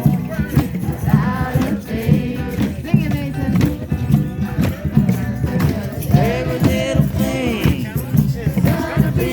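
Drum circle: many hand drums beating a steady, driving rhythm while a group of voices sings along.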